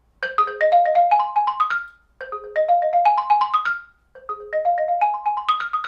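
Xylophone played with mallets: three quick phrases of struck notes, each climbing upward like an arpeggio run, with short pauses between them.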